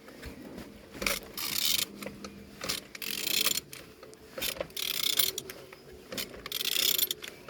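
Volkswagen CAYC 1.6 TDI diesel engine being turned over by hand: four bouts of mechanical clicking and rattling, each about a second long, coming every one and a half to two seconds. The engine turns freely, without binding.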